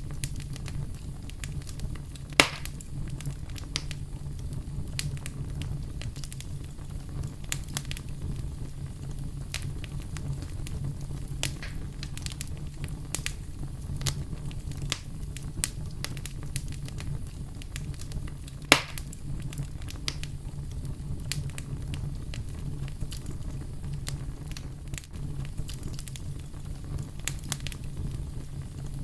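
Wood fire crackling steadily with scattered small clicks over a low, even rumble. Two much louder pops come a couple of seconds in and again about two-thirds of the way through.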